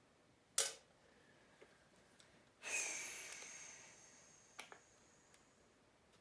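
Dirt-bike parts and tools handled during airbox disassembly: a sharp click, then a scraping rattle with a ringing tone that fades over about a second and a half, then two light clicks.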